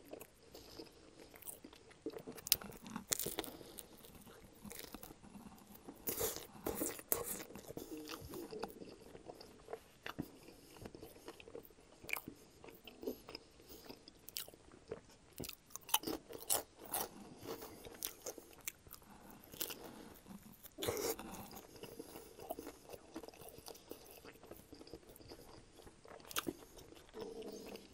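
Close-miked chewing of a Subway sub sandwich layered with potato chips: irregular crisp crunches with softer chewing between.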